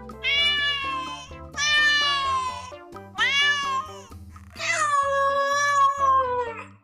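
Domestic cat meowing four times in a row, the last meow long and drawn out, over background music.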